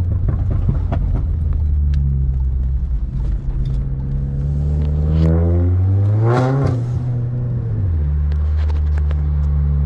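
Turbocharged 2.0 TSI four-cylinder engine of a VW GTI Mk7 with an aftermarket turbo inlet pipe, intake and downpipe, running steadily and then accelerating: the note climbs for about three seconds, ends in a short rushing hiss about six seconds in, and falls back to a steady lower note near eight seconds.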